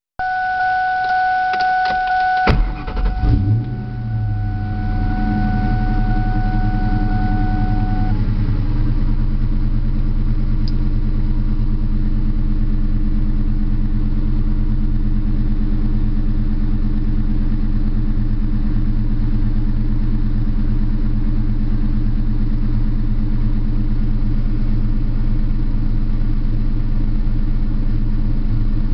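2001 Ford Mustang GT's 4.6-litre V8 being started: a steady high whine for the first couple of seconds, a click about two and a half seconds in, then the engine catches with a short rise in revs and settles into a steady idle.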